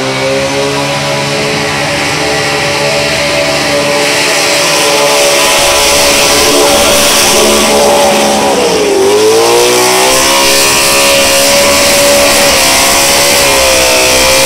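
Dodge NASCAR V8 in a VH Commodore held at high revs through a burnout, rear tyres spinning. The revs settle high early on, drop sharply about nine seconds in and climb straight back, with a smaller dip near the end.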